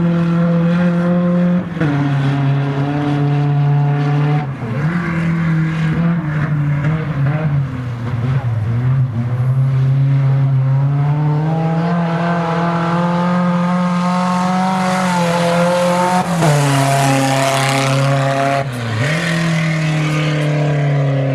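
Dirt-track race car engine running hard through practice laps. Its pitch climbs and falls with the throttle, dropping sharply about two seconds in and again near the end as the driver lifts off.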